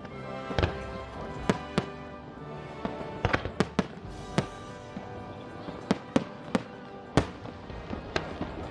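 Fireworks display bursting: a dozen or so sharp bangs, several in a quick cluster about three to four seconds in, over music.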